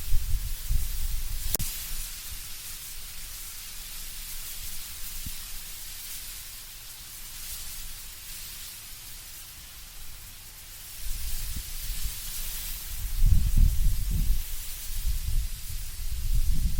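Wind blowing through autumn trees, leaves rustling in a steady hiss, with deep gusty rumbles at the start and again from about eleven seconds in. A single sharp click comes about a second and a half in.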